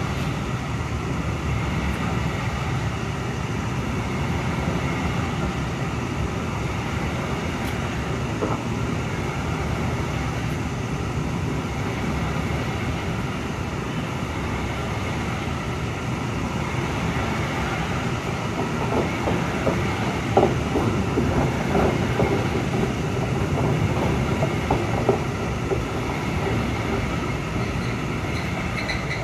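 Freight train of container-carrying flat wagons rolling past: a steady rumble of steel wheels on the rails, with a spell of sharper clacks and knocks over the rail joints about two-thirds of the way through.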